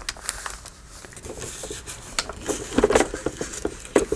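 Paper ephemera being handled and set down on a journal page: light rustling with scattered taps and clicks, a few louder taps about three and four seconds in.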